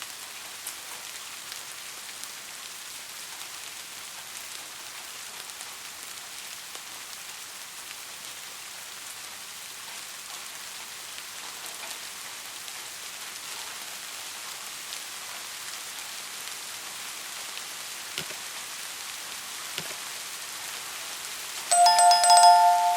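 Steady rain falling, an even hiss of drops with a few louder drips. Near the end a loud ringing chime of two steady tones sounds for about a second and a half.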